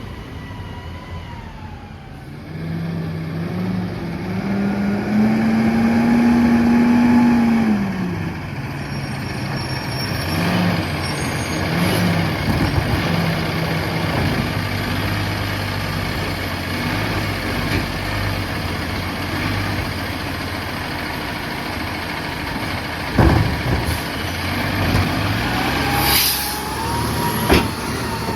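Freightliner M2 garbage truck's diesel engine revving up for a few seconds, then dropping back and running steadily. Near the end come two sharp bangs and a short air hiss in between.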